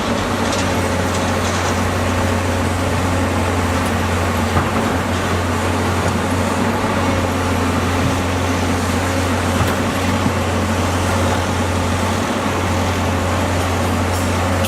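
Diesel engine of a heavy earthmoving machine running steadily with a deep, even drone, with a couple of light knocks.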